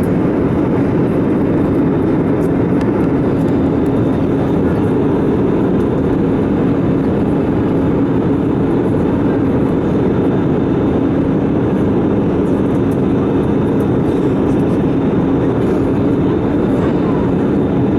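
Airbus A320 cabin noise in flight: the steady rush of engines and airflow, with an even low drone underneath.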